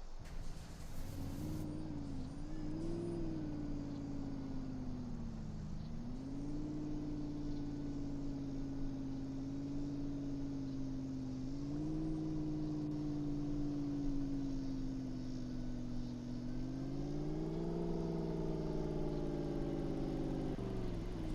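Truck engine running, its pitch dipping and rising several times as the engine speed changes, climbing higher near the end and then falling away.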